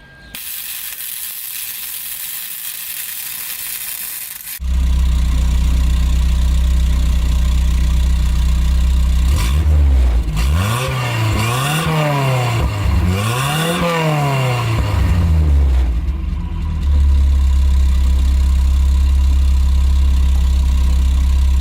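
1979 Toyota pickup's 20R four-cylinder engine, breathing through a new header and a custom exhaust with a Magnaflow muffler, catching abruptly about four and a half seconds in after a steady hiss. It idles, is revved up and down three times, about as high as 5,000 rpm, and settles back to a steady idle.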